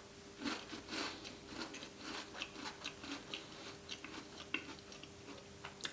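Close-up chewing of a Tim Tam chocolate biscuit: soft, irregular crunches and wet mouth sounds, fairly quiet.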